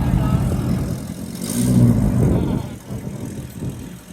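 A car engine heard through its exhaust as the car drives past, swelling louder about one and a half seconds in, then fading away.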